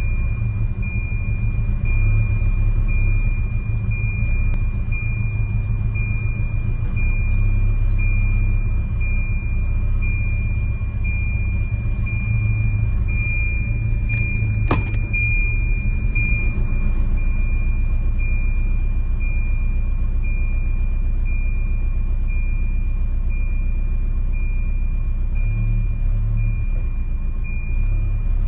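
Car engine idling roughly, with an uneven low rumble. A high beeping tone repeats steadily over it, and there is a single sharp click about halfway through.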